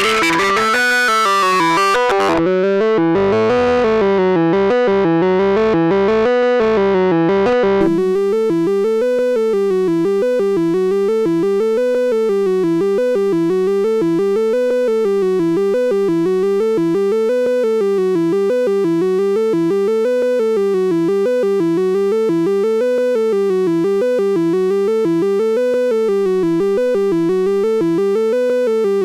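Arturia Brute-series analog synthesizer playing a repeating note sequence, with its filter cutoff and resonance being moved so the brightness shifts. About eight seconds in, the tone changes abruptly to a steadier, buzzier timbre while the same rising-and-falling note pattern carries on.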